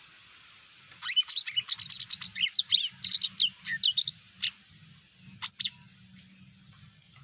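Cucak ijo mini, a green leafbird, singing: a rapid run of varied sharp chirps and gliding whistles that starts about a second in and lasts some three and a half seconds. A short two-note phrase follows a second later. A faint low hum lies underneath.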